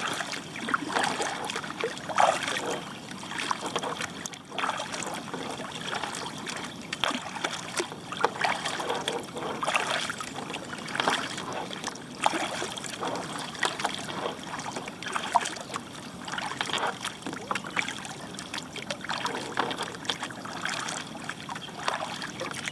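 Kayak paddling: the paddle blades dip into flat water and drip in repeated splashes, roughly one a second.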